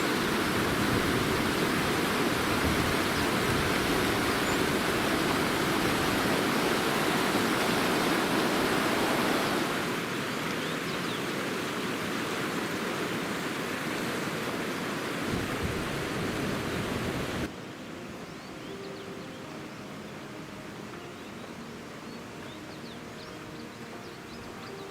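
Steady rushing water, which drops a little about ten seconds in and then cuts off suddenly about two-thirds of the way through. A quieter outdoor background with faint short bird chirps follows.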